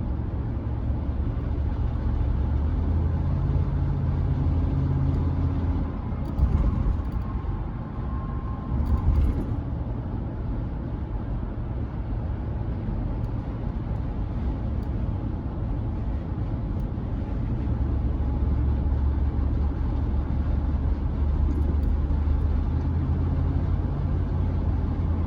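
Engine and road noise inside the cab of a moving Chevrolet C10 pickup: a steady low drone whose engine note shifts a few times with speed, broken by two brief louder noises about a quarter and a third of the way through.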